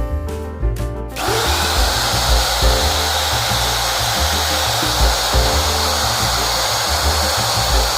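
Background music with a repeating bass line; about a second in, a power tool starts up and runs steadily over it.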